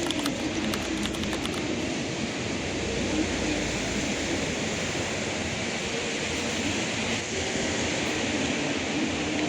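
Train in motion: a steady rumble and hiss of the ride, with a few faint ticks in the first second or two.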